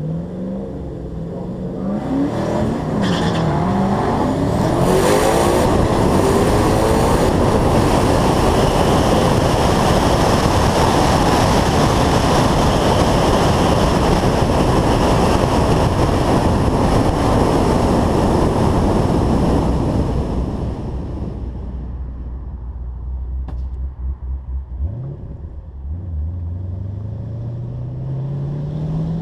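Twin-turbocharged Chevrolet Camaro SS V8 at full throttle on a drag strip. The engine revs up in rising sweeps, then runs very loud for most of the run and falls away about two-thirds of the way in. Near the end, an engine climbs in pitch again as it accelerates.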